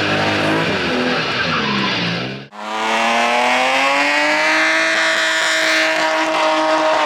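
Drift car engine held high in the revs with tyres squealing as it slides. The engine note falls at first, breaks off suddenly about two and a half seconds in, then climbs and holds steady at high revs.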